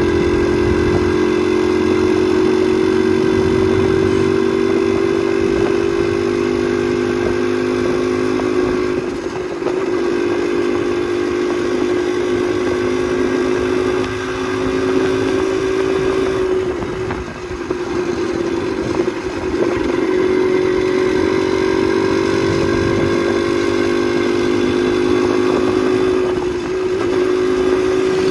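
Motorcycle engine running under way, a steady drone whose pitch creeps slowly up, then drops briefly four times as the throttle eases and picks up again.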